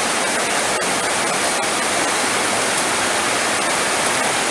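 Heavy rain pouring steadily, a dense even hiss with a few sharp drop clicks.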